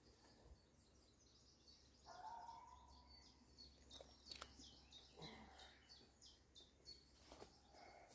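Faint woodland birdsong: a run of short high chirps repeating several times a second. A brief lower sound comes about two seconds in, and a few soft knocks and scuffs come around four to five seconds in.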